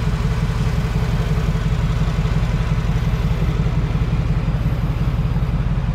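Mercedes-AMG G63's 4.0-litre twin-turbocharged V8 idling steadily, a deep, even exhaust rumble.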